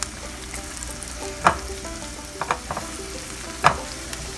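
Minced shallots sizzling steadily in melted butter in a ceramic-coated frying pan, as they start to sauté. A spatula stirs them and knocks against the pan a few times, the loudest knock near the end.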